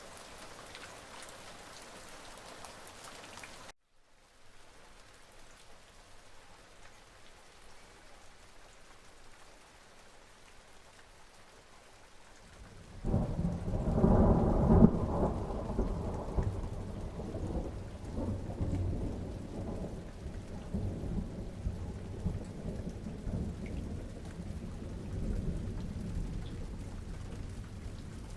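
Steady rain falling, cutting out for an instant about four seconds in and coming back softer. About halfway through, thunder breaks in with a sudden loud rumble and keeps rolling, deep and uneven, to the end.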